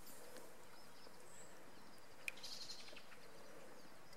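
Faint outdoor ambience with brief high bird chirps. There is a short whistle a little over a second in, then a single sharp click about two seconds in, followed by a quick run of chirps.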